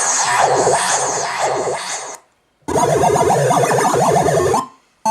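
KORG Kaossilator handheld synthesizer playing a dense, noisy patch full of rapid swooping pitch glides, which stops about two seconds in. After a short silence a second patch with a wobbling, warbling pitch plays and cuts off near the end.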